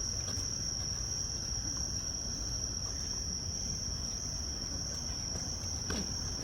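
A steady, high-pitched insect chorus over a low rumble of background noise, with a faint knock near the end.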